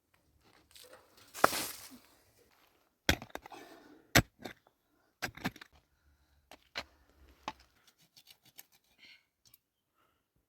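A run of sharp, separate knocks and clicks, about a dozen spread over several seconds with short rustles between them. The loudest come about one and a half, three and four seconds in.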